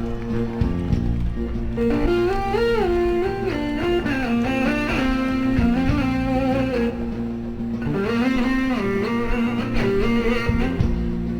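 Live band music: an electric slide guitar plays a gliding, ornamented melody over a steady low drone.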